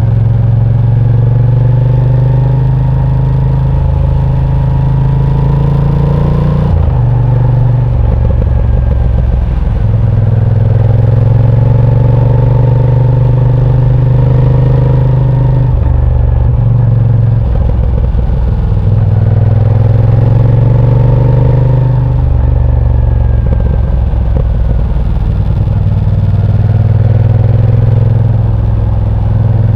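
Moto Guzzi V7 Sport's air-cooled transverse V-twin running under load on the move, its pitch rising through several pulls and dropping off sharply between them as the throttle is closed or a gear is changed, about four times.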